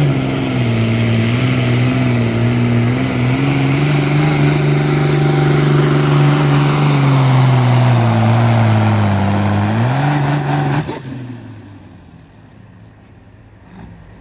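A pulling tractor's engine running hard at full throttle while it drags the weight sled. Near the end the engine lugs down under the growing load and picks up briefly, then it cuts off abruptly about eleven seconds in as the run ends.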